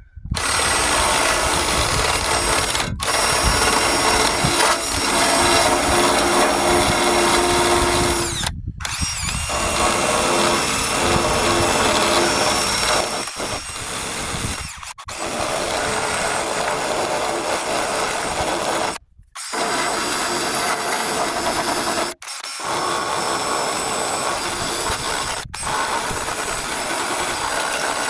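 Electric drill stripping paint from the truck's sheet metal. It runs in long, loud stretches and stops briefly every few seconds.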